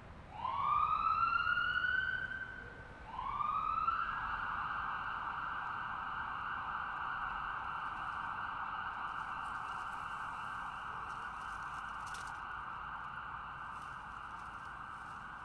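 Distant ambulance siren: two rising wails, then one long steady note that slowly fades.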